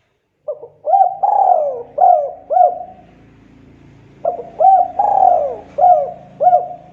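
Spotted dove (tekukur) cooing: two phrases of about five coos each, each phrase with a longer falling coo in the middle.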